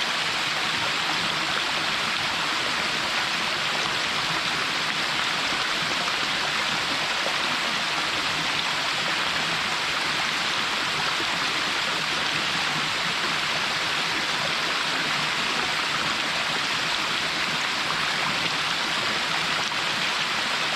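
Small waterfall splashing and rushing steadily, an even hiss of falling water with no breaks.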